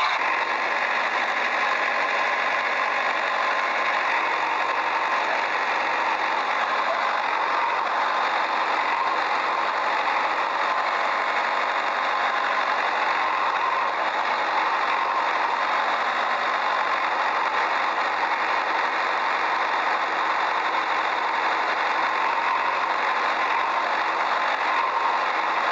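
Steady mechanical whirring of a small toy vehicle's motor, running evenly with a gritty rattle and little low rumble.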